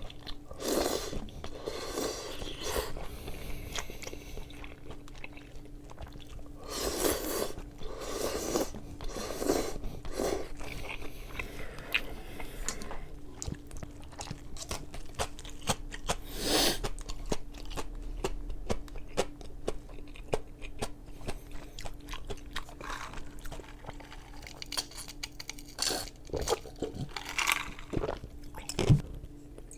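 Close-miked chewing and crunching of food, a steady run of small crunches and mouth clicks with a few louder bites.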